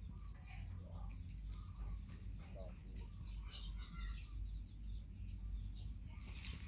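Faint, scattered short bird calls and chicken clucks over a low steady rumble.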